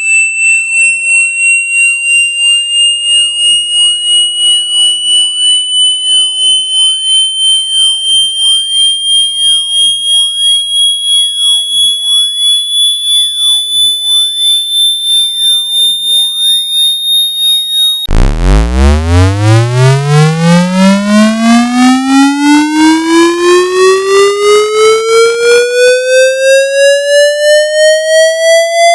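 Electronically generated water-eject tone, played to vibrate droplets out of a phone's charging port. A high tone slowly rises in pitch and pulses about twice a second; about eighteen seconds in it switches abruptly to a low buzzy tone that sweeps steadily upward in pitch.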